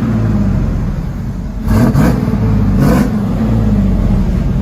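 1994 Chevy Silverado 1500's 5.7-litre V8 running through a true dual exhaust with an X-pipe, high-flow cats and Borla Pro XS mufflers. It idles, then is revved twice in quick blips, a little under two seconds in and again about three seconds in, each rising in pitch and then settling back to idle.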